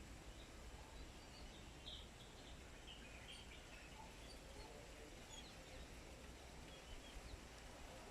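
Faint, scattered short bird chirps over a steady low background hum.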